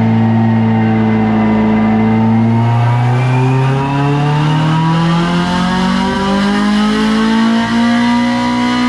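Honda Civic Type R EP3's K20 four-cylinder engine under load on a rolling-road dyno. It holds steady for about two and a half seconds, then climbs slowly and steadily in revs. It is heard through a 4-2-1 decat manifold, centre section and Spoon N1 back box.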